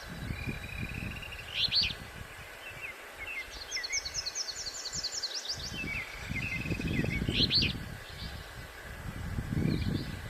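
A songbird singing repeated phrases, each a short low trill followed by a few sharp high notes, coming about every three seconds, with a rapid run of high notes in the middle. Gusty wind rumbles on the microphone underneath.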